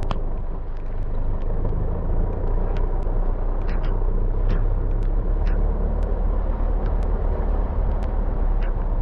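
4x4 vehicle driving on a rough dirt track: a steady low engine and road rumble with scattered sharp knocks and rattles.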